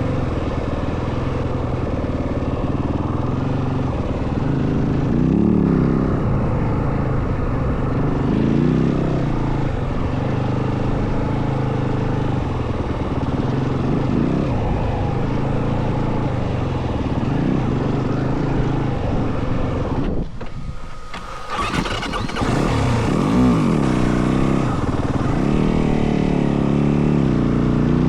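Yamaha WR450F dirt bike's single-cylinder four-stroke engine running under way off-road, its pitch rising and falling repeatedly as the throttle is worked. The engine note drops away briefly about two-thirds of the way through, then picks up again.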